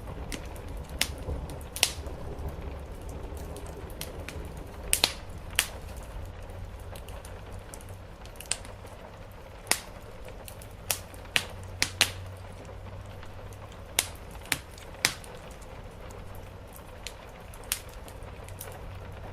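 Wood fire in a fireplace crackling, with irregular sharp pops over a steady low rumble and a soft hiss of rain.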